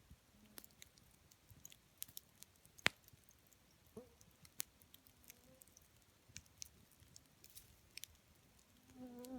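Wood campfire burning quietly, with sparse crackles and sharp pops, the loudest about three seconds in. Near the end a flying insect buzzes in close.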